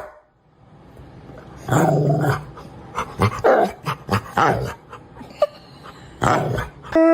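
A dog vocalising in a run of short whines, yips and grumbles, starting about two seconds in after a moment of quiet. A long, held, steady-pitched cry begins right at the end.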